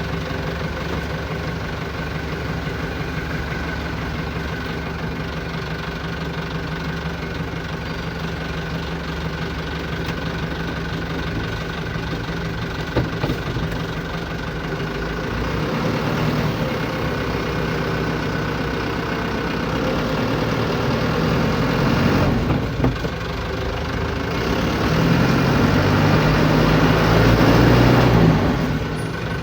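Vehicle engine idling steadily. It grows louder from about halfway and is loudest near the end, then drops back just before the end.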